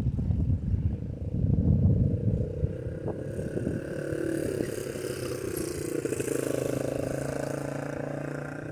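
A motor vehicle engine passing by, a steady hum that swells to its loudest about two-thirds in and then fades, after a low rumble at first.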